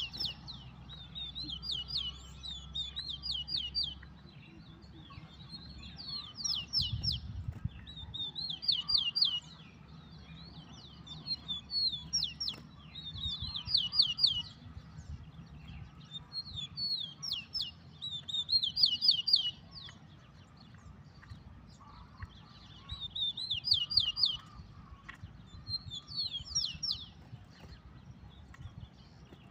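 Rufous-collared sparrow (tico-tico) singing: short high phrases of quick down-slurred notes, repeated every couple of seconds. A faint low hum sits underneath.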